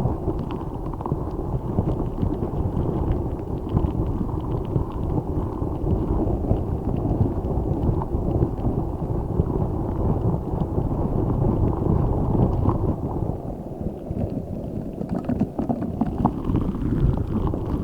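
Giant spiky Orbeez squishy ball being squeezed and kneaded against the microphone: a dense, low, continuous squishing and rubbing noise, with a few light clicks near the end.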